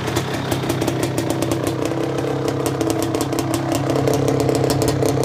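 Suzuki LT250R quad's two-stroke engine idling on a cold start, still warming up and sounding a little lean. It gets slightly louder about four seconds in.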